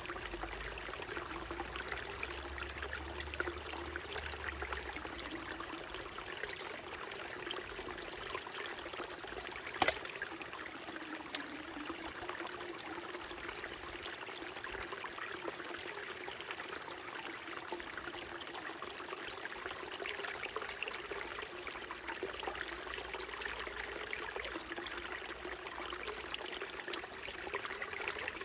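A small mountain stream running steadily, its water trickling and pouring without pause. One sharp click sounds just under ten seconds in.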